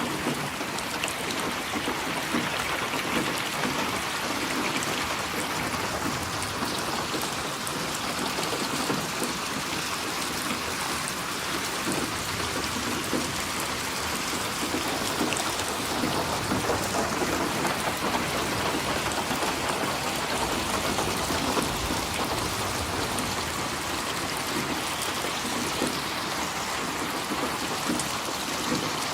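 Steady rain falling, an even hiss of drops hitting surfaces with no letup.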